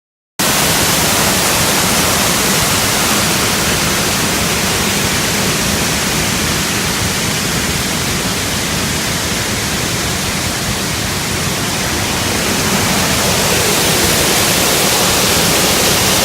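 Waterfall pouring, a loud, steady rushing noise that cuts in abruptly about half a second in.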